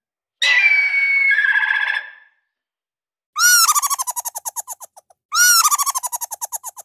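An eagle calling, a short run of high whistled notes, followed by a red squirrel chattering: two bursts of rapid rattling pulses, about a dozen a second, each burst starting higher and settling lower.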